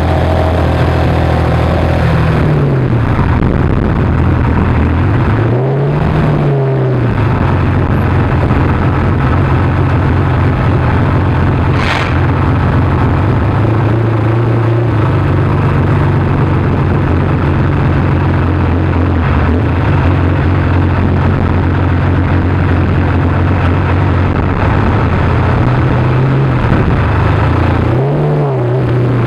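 McLaren F1's BMW V12 idling, with short throttle blips that rise and fall in pitch near the start, about six seconds in, and again near the end. A single sharp click is heard about twelve seconds in.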